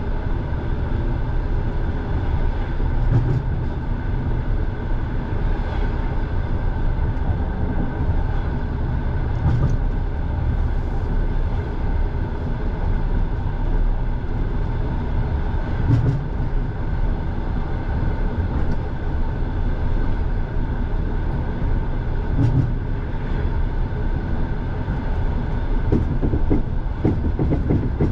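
Russian passenger train carriage running along the track, heard from inside: a steady low rumble with a single wheel knock over a rail joint about every six seconds, and a quicker run of clicks near the end.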